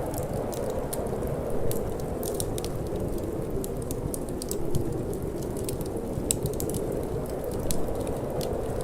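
Wood fire crackling, with frequent small sharp pops scattered irregularly over a steady low rush of wind.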